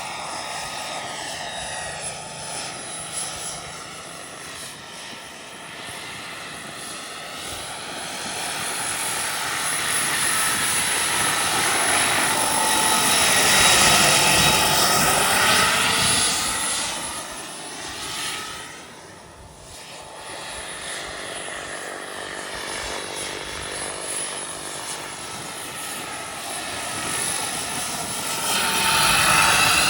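Turbine-powered scale RC helicopter in flight, with a steady high turbine whine. It swells to its loudest about halfway through as it passes close, fades briefly, then grows loud again near the end.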